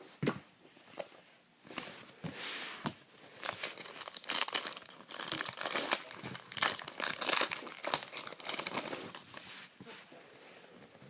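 Foil trading-card pack being torn open and crinkled in the hands, with a few sharp clicks of cards being handled first. The crinkling is densest in the middle and fades near the end.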